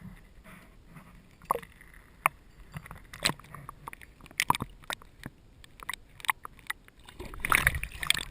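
Scattered sharp knocks and clicks of gear being handled in a kayak, with a louder, noisier stretch near the end.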